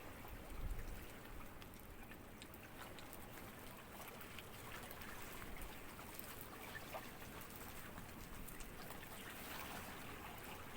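Faint trickling and lapping of small sea ripples, a steady wash of water with many tiny splashes.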